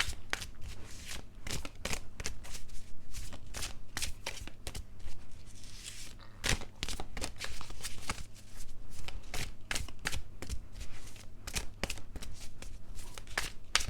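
A tarot deck being shuffled by hand: a dense, irregular run of card flicks and soft taps.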